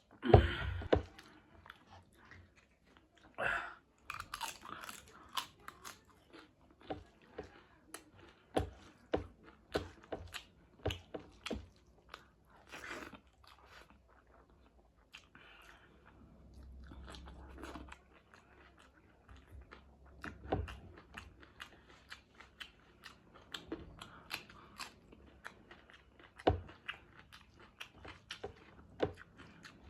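A person chewing and biting into chicken wings curry with rice, broccoli and salad, close to the microphone, with many short crunches throughout and a louder burst right at the start.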